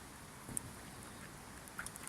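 Campfire crackling faintly: a low steady hiss with a single pop about halfway in and a couple of small snaps near the end.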